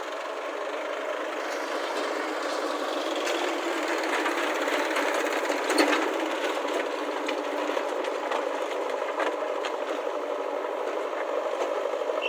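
A machine's motor running steadily with a rattling, clicking texture and one louder knock about six seconds in.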